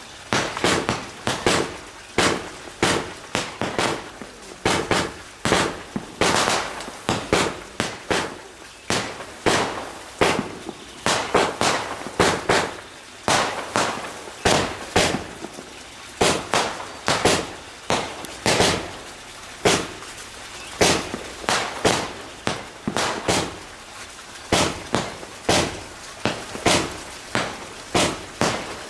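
Fireworks going off in a rapid, continuous string of sharp bangs, about two a second, each trailing off briefly.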